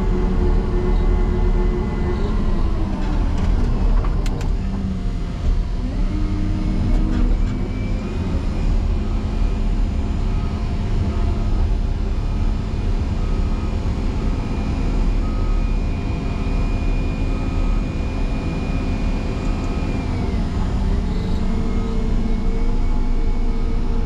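Motor grader's diesel engine, almost 300 horsepower, running hard as it pushes into a deep snow drift: its speed sags under load about two seconds in, picks back up around six seconds, and dips and recovers again near the end. A few sharp knocks sound around four seconds in.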